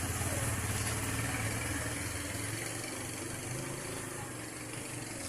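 A steady low mechanical hum, like an idling engine or a running motor, under a faint even hiss.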